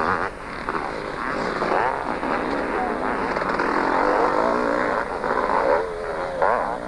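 Several two-stroke motocross motorcycles racing, their engines revving up and down and overlapping as they pass.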